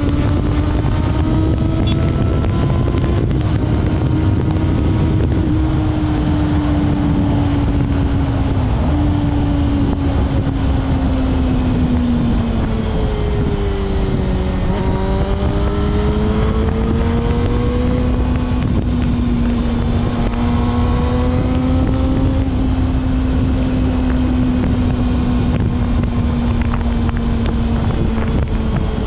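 Honda CBR250RR MC22 inline-four engine running under way at high, fairly steady revs; its pitch drops about 13 seconds in, then climbs back and holds. Wind noise on the microphone underneath.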